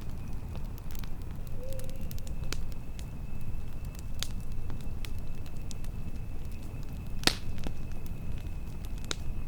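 Campfire crackling: scattered sharp pops and snaps, one much louder pop about seven seconds in, over a steady low rumble of wind. A faint steady high tone runs underneath.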